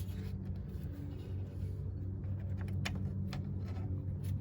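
A few light clicks and taps as a rubber lower radiator hose and its clamp are handled and fitted, over a steady low hum.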